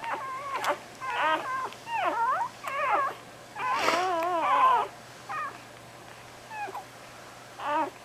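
Newborn puppies crying in short, high, wavering squeals and whines, several in quick succession and loudest about four seconds in, thinning to a few brief cries toward the end.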